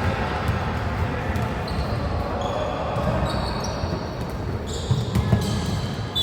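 Basketball game on an indoor court: the ball bouncing with dull thuds and sneakers squeaking in short high squeals, which come more often in the second half, all echoing in the gym.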